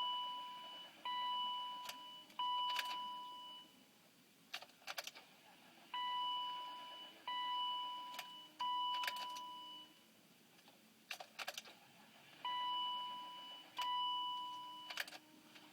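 BMW E39 dashboard warning chime sounding in sets of three fading tones, repeating about every six seconds, with sharp clicks between the sets, as the key is cycled in the ignition of a car that will not start cold. No engine running is heard.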